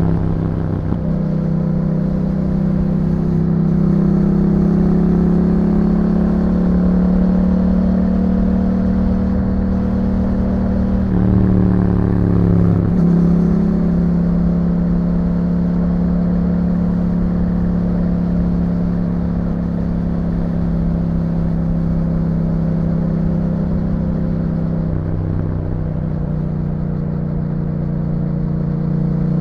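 2021 Yamaha MT-07's parallel-twin engine through an Akrapovič exhaust, running at a steady cruise. Its note changes briefly about a second in, again around the middle, and once more near the end.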